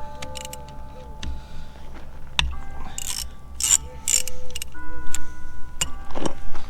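Ratchet wrench clicking and metal tools knocking while the drain plug is worked loose on a John Deere 4720 sprayer's rear planetary hub, with a few short rasping strokes in the middle.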